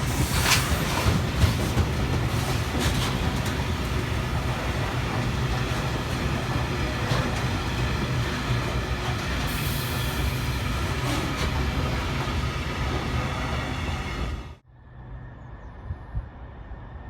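Engineers' train wagons rolling past, a steady rumble of wheels on rail with occasional sharp clacks. It cuts off abruptly near the end, leaving a much quieter background.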